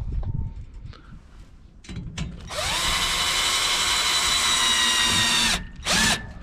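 Electric drill running: the motor whines up to speed, runs steadily for about three seconds and stops, then gives one short second burst near the end.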